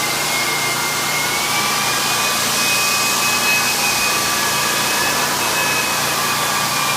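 Floor sander running steadily on hardwood: an even, loud rushing noise with a thin high whine that drifts slightly up in pitch about two seconds in.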